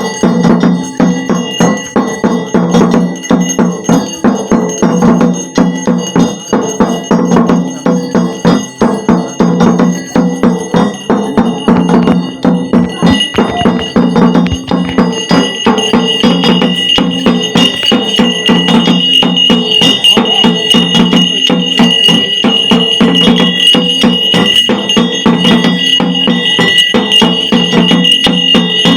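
Ritual bells ringing rapidly and continuously with fast percussive strikes, at full loudness. A high ringing tone grows stronger from about halfway through.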